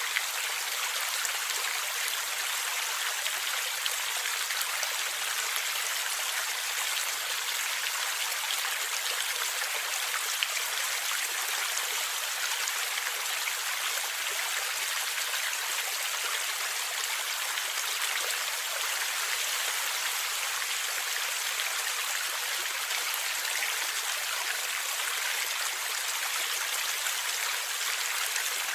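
Forest stream flowing and gurgling steadily: an even, hissy rush of water with no deep rumble.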